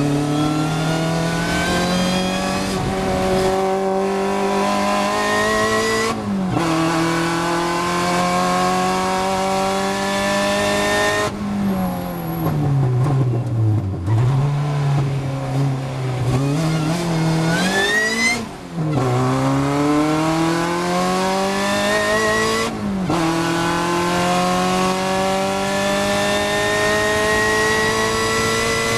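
Supercharged Opel Speedster's four-cylinder engine at full throttle, pulling up through the gears with a sharp drop in pitch at each upshift. About a third of the way in, the revs fall away as the car brakes and comes down the gears for a slow corner, then climb again as it accelerates hard through three more shifts.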